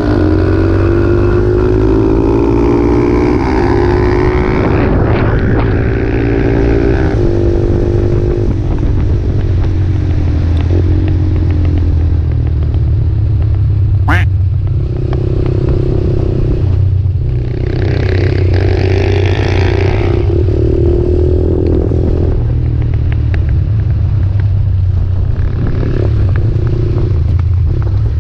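Motorcycle engine heard from onboard at track speed, climbing in pitch through the gears over the first several seconds, then rising and falling with the throttle through the corners.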